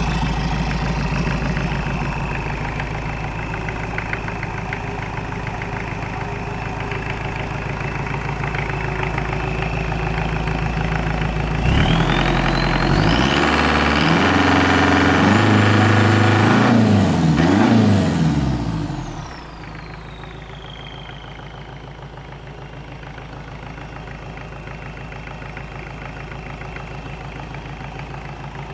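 Nanni 4.390Tdi turbocharged marine diesel engine idling, then revved up about twelve seconds in with a rising turbo whine, held high for several seconds, and throttled back to a quieter idle as the whine falls away.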